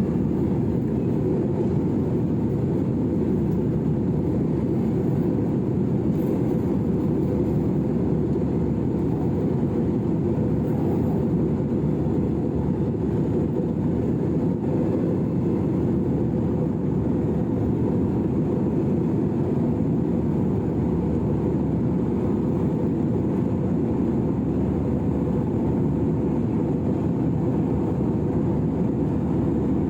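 Airliner cabin noise after takeoff: a steady, unchanging rumble of jet engines and airflow, deep and even, heard from inside the passenger cabin.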